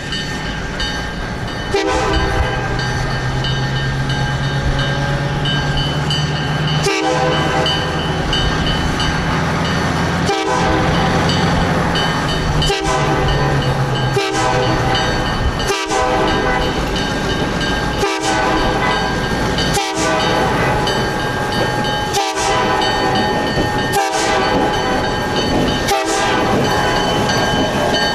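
An EMD SW-800 switcher's diesel engine working as its train rolls by, the engine's pitch rising for the first half, with wheels clicking over rail joints every couple of seconds.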